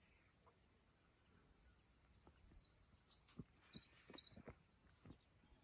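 Faint, high, bird-like chirps in a short cluster a few seconds in, mixed with a few soft clicks.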